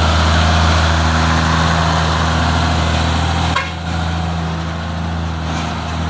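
Heavy truck diesel engine running steadily under load. About three and a half seconds in there is a short knock, and the engine note drops and becomes quieter.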